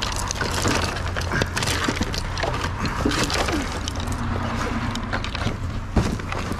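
Junk being rummaged and shifted in a dumpster: scattered clatters, knocks and rustles of objects being moved, over a steady low hum.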